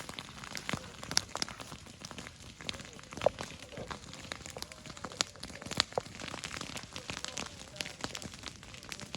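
Open wood fire crackling, with irregular sharp pops and snaps.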